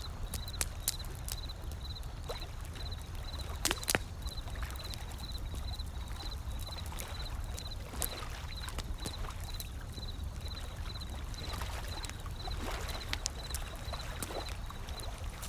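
Wood fire crackling with scattered sharp pops, the loudest a double pop about four seconds in, over the low steady rush of ocean waves washing in. A faint high-pitched pulse repeats about three times a second throughout.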